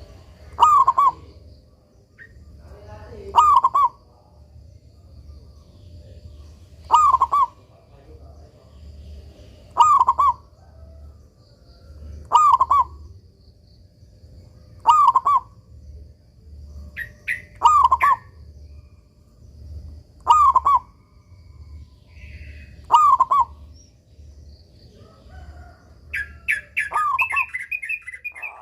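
A zebra dove (perkutut) sings its cooing phrase over and over, nine times, about every two and a half to three seconds. Near the end comes a rapid run of higher chirps.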